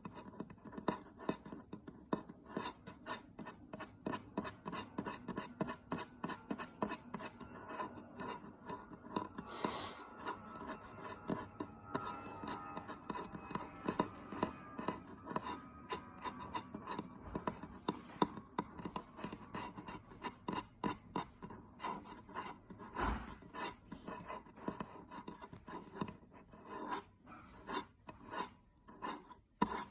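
Fingernails being filed with a nail file, in quick back-and-forth scraping strokes, a few a second.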